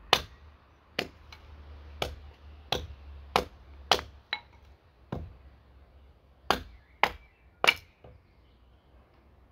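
Axe chopping wood, about ten sharp strikes at an uneven pace, with a short pause about halfway through.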